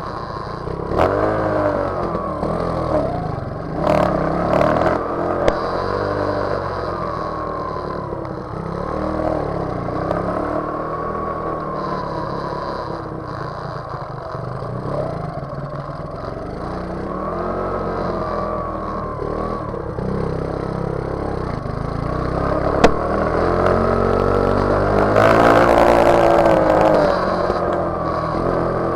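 Motorcycle engine running and revving, its pitch climbing and dropping again and again through gear changes, with a few sharp clicks. The revs climb to their loudest about 25 seconds in.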